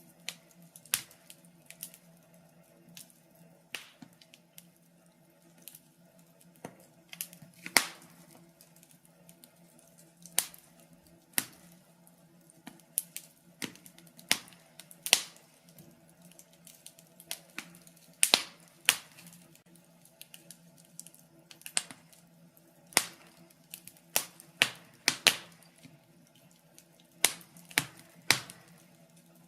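Wood fire in a fireplace crackling, with irregular sharp pops and snaps of varying strength over a faint steady low hum.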